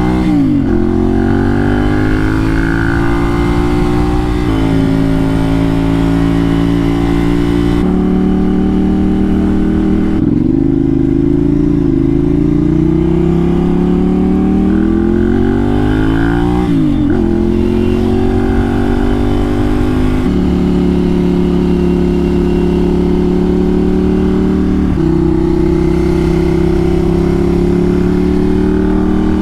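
Ducati motorcycle engine running while the bike is ridden on the road, its pitch stepping and gliding up and down with throttle and gear changes, with a sharp drop in pitch about halfway through.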